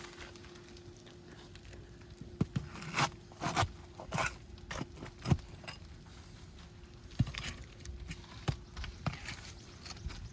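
Asphalt roof shingles being scraped and pried loose with a hand tool: irregular scrapes and sharp knocks, coming about every half second for a few seconds, then scattered knocks later on.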